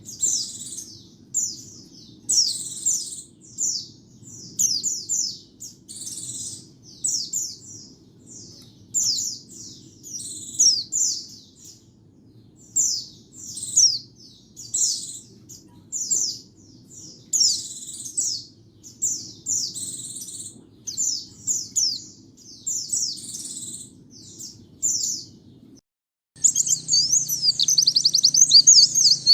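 White-eye (pleci) singing: short, quick, high chirping phrases repeated about once a second over a faint low hum. Near the end the song breaks off for a moment and a denser, unbroken warble starts.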